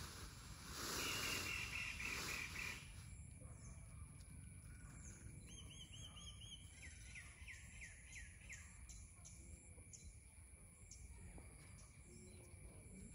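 Small birds calling in quick runs of repeated chirping notes, a second in and again through the middle, over a thin, steady insect trill.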